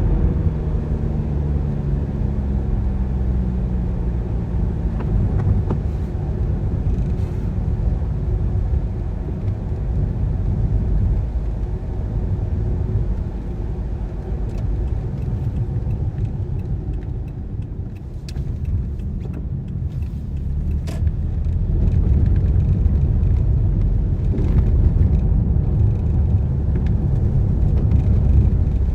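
A car driving along, with a steady low rumble of engine and road noise. The engine note falls over the first few seconds as the car slows. The sound dips about two-thirds of the way through, then builds again as the car picks up speed, with a few scattered light clicks.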